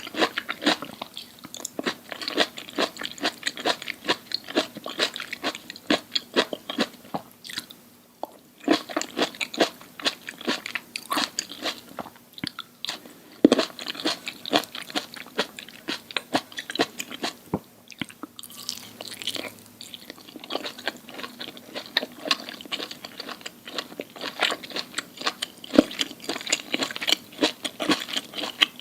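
Close-miked crunchy chewing and biting: rapid crackling crunches of food between the teeth, with a few louder sharp bites and brief pauses between mouthfuls.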